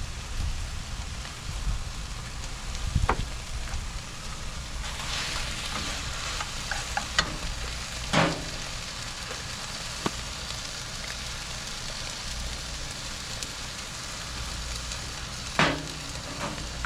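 Food frying and sizzling in a hot pan, a steady hiss broken by a few sharp knocks, about three and eight seconds in and again near the end.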